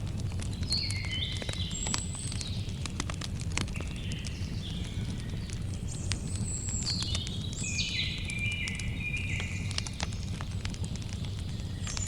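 Campfire crackling, with frequent sharp pops from the burning wood over a low, steady rumble. A bird sings short high phrases over it, with a longer run of song in the second half.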